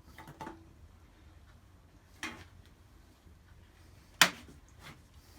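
Fuel cap being taken off a small engine's gas tank and the tank handled: a few faint clicks and knocks, with one sharp click about four seconds in.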